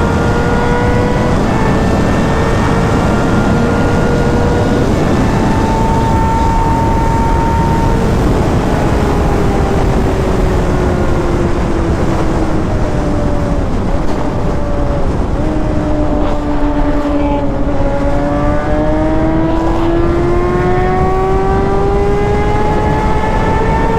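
Sport bike's inline-four engine heard while riding at speed, over a steady rush of wind noise. The engine note holds, falls gradually as the bike slows to a low point past the middle, then rises again as it speeds back up.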